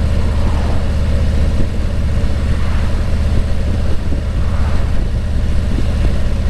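Steady low rumble of travel along a road, with no distinct events.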